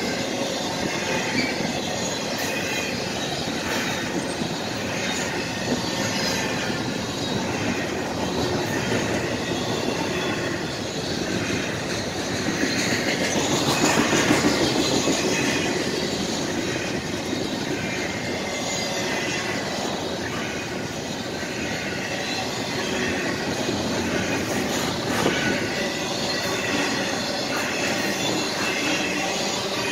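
Double-stack container train of well cars passing close by: a steady rumble and clatter of steel wheels on the rails, with faint high squealing from the wheels at times. It swells a little about halfway through.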